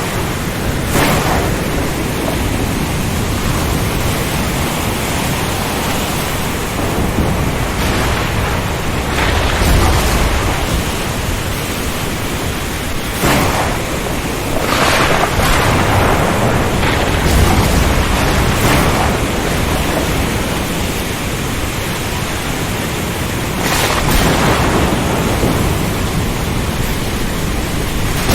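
Storm soundscape at sea: a steady, dense rush of wind, rain and surf, with heavier surges and low thunder rumbles several times.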